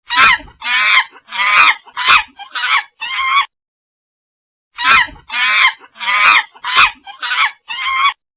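A bird calling in a run of six short, harsh calls, then the same run of six again after a pause of about a second.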